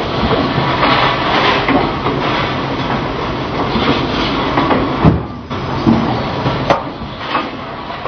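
Production-line machinery running with a loud, steady clattering din, with a few sharp knocks in the second half.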